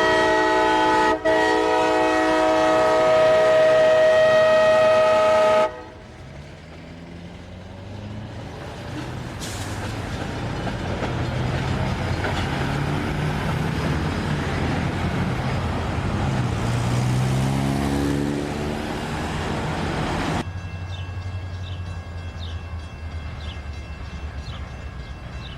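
Diesel locomotive horn sounding one long steady chord, cut off suddenly about six seconds in. Then a diesel locomotive's engine runs under rail noise, its pitch rising and falling. Near the end it changes abruptly to a quieter steady rumble with faint clicks.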